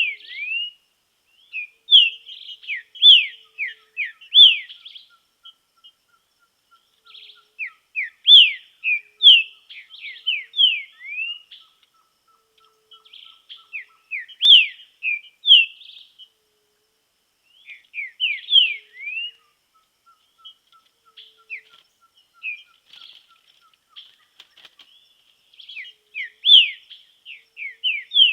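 Green-winged saltator (trinca-ferro) singing: short phrases of clear, downward-sweeping whistled notes, repeated about every four to six seconds with brief pauses between.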